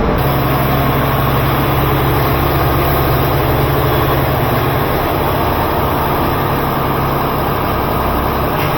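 Air compressor starting up and running steadily with a low hum, pressurising the newly plumbed air lines of a car wash machine.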